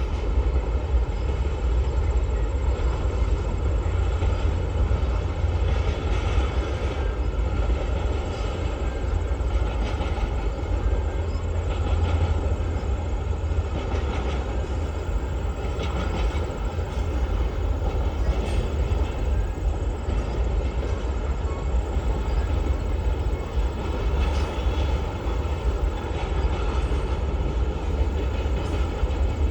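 A long train passing steadily, a continuous heavy rumble with faint wheel clacks every second or two.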